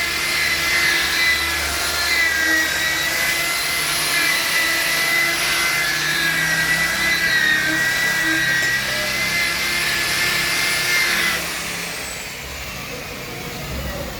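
Electric handheld power tool motor running with a steady, slightly wavering high whine, switched off about eleven seconds in and winding down with a falling pitch.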